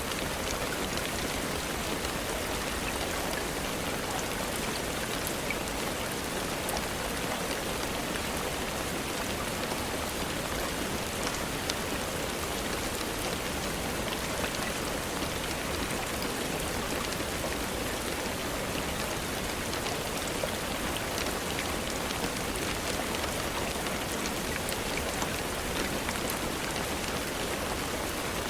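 Steady rain falling, an even hiss of water dotted with scattered small, sharp ticks.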